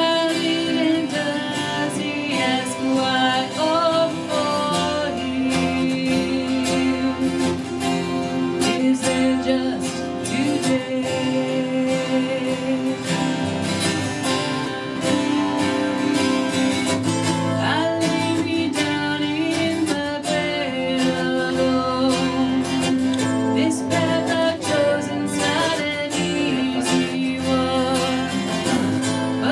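Live acoustic song: acoustic guitar playing under a woman's singing voice, with long held notes.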